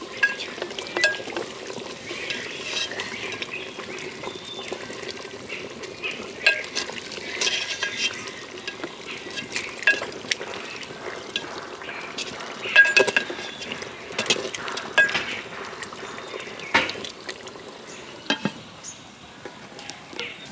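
A metal utensil stirring a chicken curry in a clay cooking pot: irregular clinks and scrapes against the pot, some ringing briefly, over a steady hiss from the cooking.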